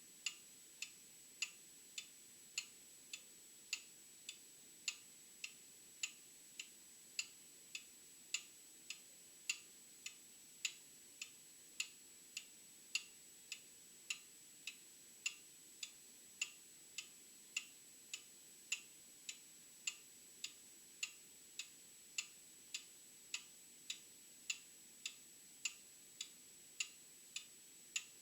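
Old mechanical clock ticking steadily, a little under two ticks a second, the ticks alternating louder and softer in a tick-tock pattern.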